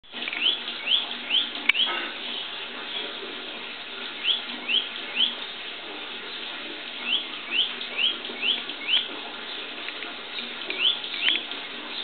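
A small bird calling: a series of short, rising notes, about two or three a second, in runs of three to six with brief pauses between. One sharp click comes early in the first run.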